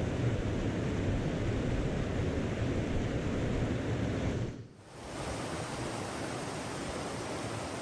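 Steady rushing of a mountain stream. It dips sharply about four and a half seconds in, then carries on a little quieter.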